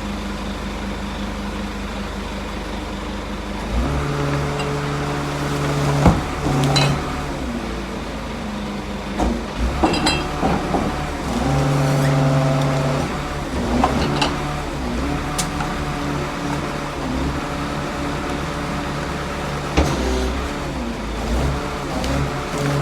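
Rear-loader garbage truck running, its engine speeding up for stretches about four and twelve seconds in, with several sharp metal clanks and knocks along the way.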